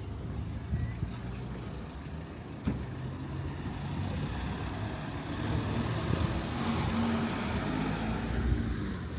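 A motor vehicle driving past on the street, its engine hum and tyre noise swelling to a peak near the end and then starting to fade.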